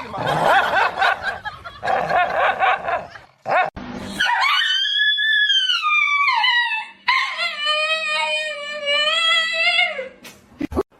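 A dog whining and yelping, then howling twice: a first howl that rises and falls, then a longer, steadier one of about three seconds.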